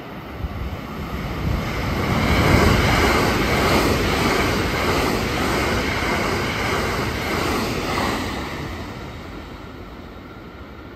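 Limited-express electric train passing through a station at speed: the rush and rumble of wheels on rail builds up about two seconds in, stays loud for several seconds, then fades as the train goes away.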